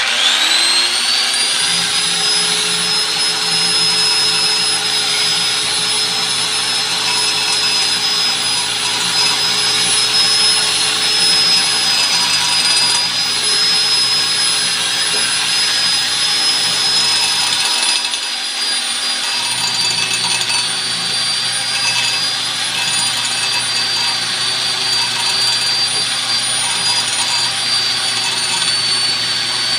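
Electric grinder switched on, its motor whining up to speed within about a second and then running steadily at high speed, used in resurfacing a brake drum.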